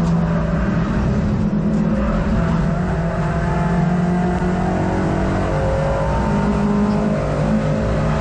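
Racing hatchback's engine at speed, heard from inside the car, running continuously with its note rising and falling.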